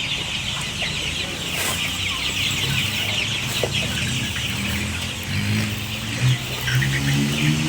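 A flock of chickens calling together: a dense, continuous chatter of many high cheeps, with lower clucks coming in over the second half.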